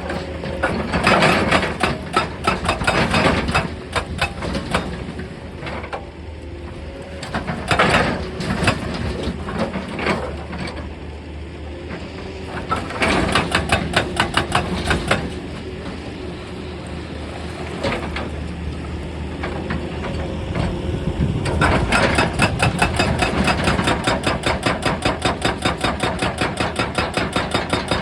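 An excavator's diesel engine runs steadily while its hydraulic breaker hammers rock in several bursts of rapid, even blows, about five a second; the longest burst starts about three-quarters of the way in and runs on.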